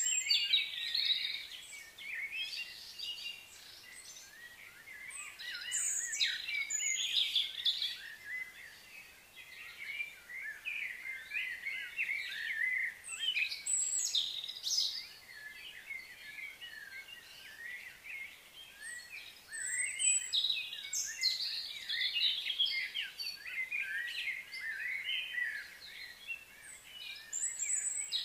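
Birds chirping and calling in bouts of quick, high twittering notes, with quieter stretches between bouts.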